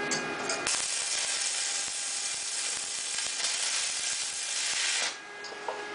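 Electric arc welding crackling and hissing as a tack weld is laid on steel profile. It starts just under a second in, runs for about four seconds and cuts off sharply.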